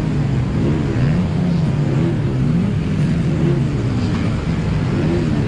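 Car engine being revved over and over, its pitch rising and falling about once a second.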